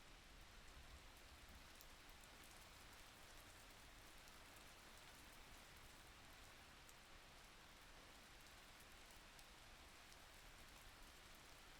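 Faint, steady rain, an even hiss with scattered light drop ticks.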